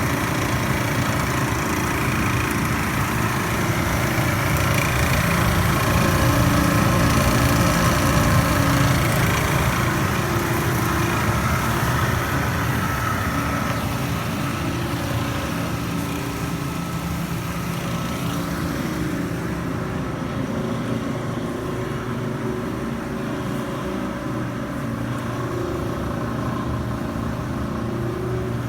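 Panda PAN760SF portable clothes dryer running with a steady grinding, chattering noise, a fast rattle under the drum's hum. The noise came from a faulty drive motor: a new fan belt did not cure it, a replacement motor did.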